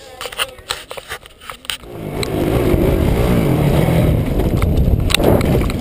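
A few scattered clicks and knocks, then from about two seconds in a dirt bike engine running loudly, its pitch wavering up and down.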